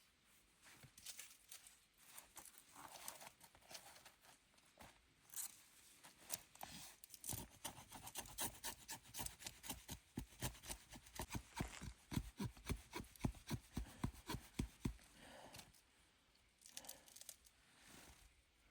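Scraping and rubbing on wood, starting with scattered scrapes. Through the middle it turns into a fast, even run of strokes, about four a second, which grows louder and then stops, leaving a few more scattered scrapes near the end.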